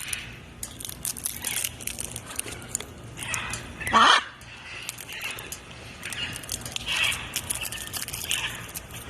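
Macaw squawking: one loud harsh call about four seconds in, with softer calls later and scattered clicks throughout.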